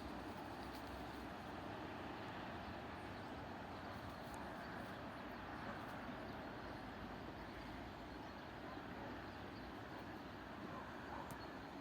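Freight train rolling by with a steady, even rumble.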